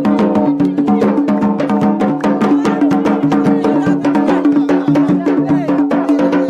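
Yemeni wedding procession music: drums and marfa' drums beating a fast, steady rhythm under a sustained melodic line.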